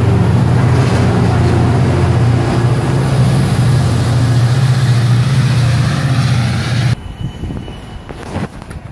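MARC commuter train passing close along the platform, its diesel locomotive's engine drone loud and steady over the rumble of the cars. It cuts off abruptly about seven seconds in, leaving quieter wind noise on the microphone.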